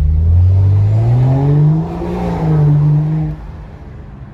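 Straight-piped exhaust of an F10 BMW under hard acceleration, rising in pitch, with a brief dip at a gearshift about two seconds in, then climbing again before the driver lifts off near the end.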